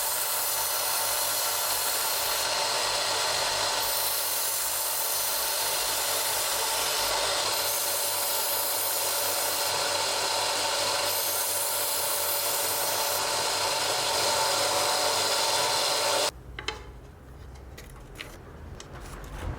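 A power tool runs steadily against wood, then cuts off suddenly about sixteen seconds in; a few light clicks follow.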